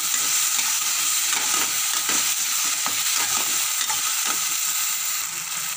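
Tomatoes and peas frying in oil in a metal kadhai: a steady sizzling hiss, with irregular scrapes as a spatula stirs the nearly roasted masala against the pan.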